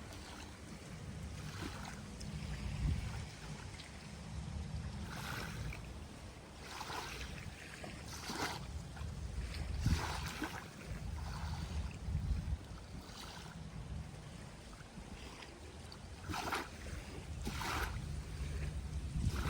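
Small waves washing onto a beach in a run of short splashes every second or two, with wind rumbling on the microphone underneath.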